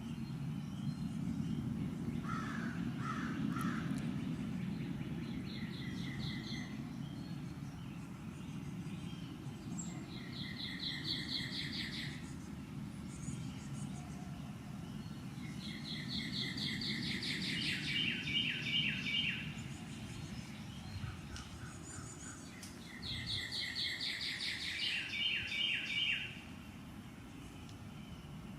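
A small songbird singing, repeating a rapid high trill in bursts of one to three seconds several times over, against a steady low background rumble.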